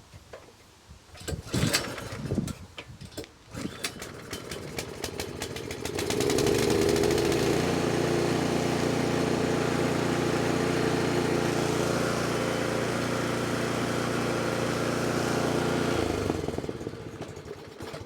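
Snowblower's small gasoline engine turning over and catching about six seconds in, running steadily for about ten seconds, then dying away near the end. It is running on a freshly cleaned carburetor with old, darkened fuel and smoky exhaust.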